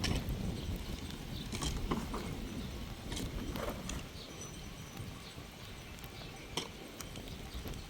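Wind rumbling on the microphone, with scattered light knocks and clicks.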